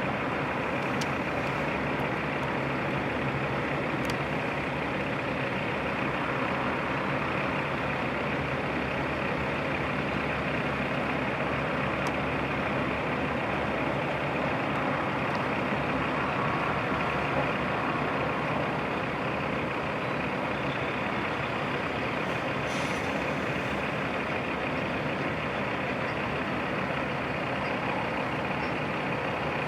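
Heavy diesel truck engines running steadily, with a short hiss about three-quarters of the way through.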